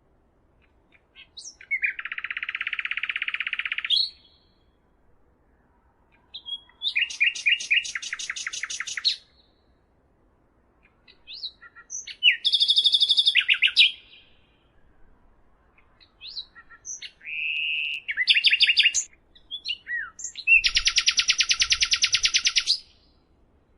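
A songbird singing in phrases of rapid trills, about five phrases of quickly repeated high notes, each lasting two to three seconds, with short pauses and a few single notes between them.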